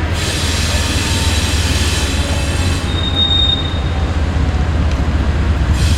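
Railroad cars rolling past with a steady heavy rumble and the squeal of wheels on rail, with one sharp high squeal about three seconds in.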